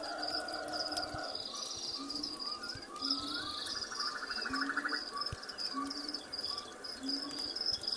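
Crickets chirping in a steady, fast-pulsing high trill, with shorter trills and gliding bird-like chirps mixed in.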